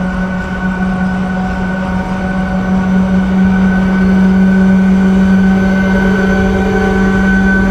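Freight train locomotive running with a steady hum over a low rumble, getting a little louder about three seconds in.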